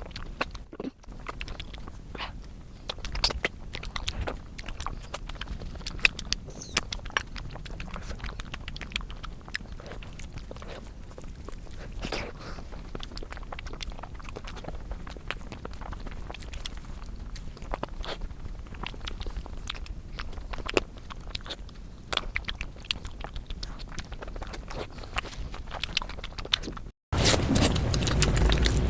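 Close-miked chewing and biting of food, a dense run of small irregular wet clicks and occasional crunches. About two seconds before the end it cuts out briefly, and a louder, steadier sound takes over.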